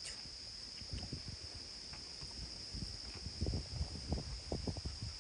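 A steady, unbroken high-pitched chorus of insects, such as crickets or katydids, in a marsh. Low, irregular rumbles of wind buffeting the microphone grow stronger after about three seconds.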